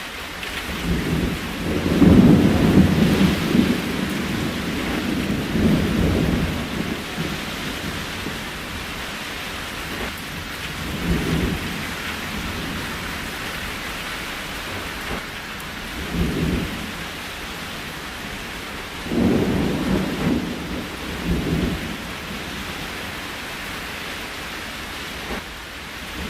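Steady rain with repeated low rumbles of thunder. The longest and loudest rumble comes a couple of seconds in and lasts several seconds, and shorter ones follow at intervals.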